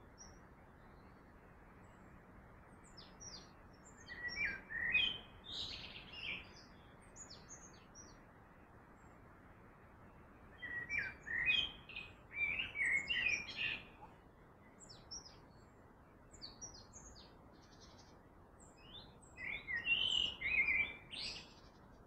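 Birds singing and chirping in three bouts of quick, varied phrases over a steady low hiss.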